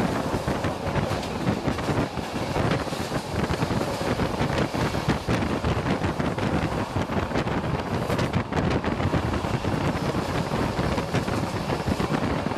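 Passenger train in motion, heard from beside the carriage window: steady rushing wind on the microphone with rapid rattling and clicking.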